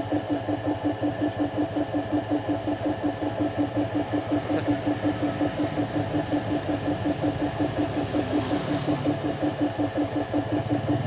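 An engine running with a steady pulsing beat of about four to five pulses a second; near the end a second, deeper engine note comes in and grows louder.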